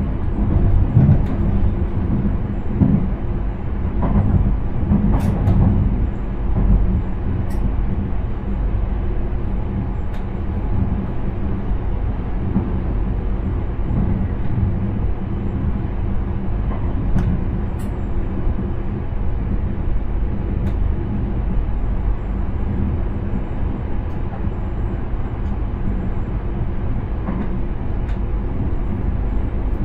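Intercity train running along the track, heard from inside the driver's cab: a steady low rumble of the train on the rails, with a few faint clicks.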